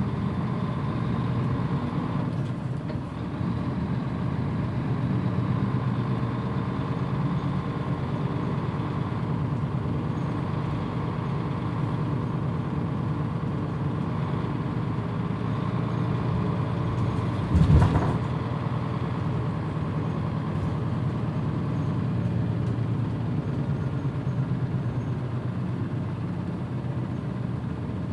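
Mitsubishi Fuso PJ-MP35JM bus engine running steadily on the road. About two-thirds of the way through there is a brief, loud burst of noise.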